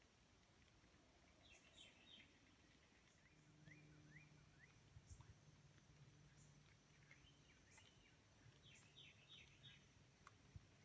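Near silence with faint bird calls: several short runs of quick, falling chirps, and a faint low steady hum from about three seconds in.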